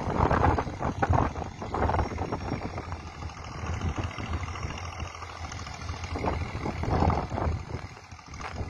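Passenger train rumbling and clattering along the tracks, mixed with wind buffeting the microphone.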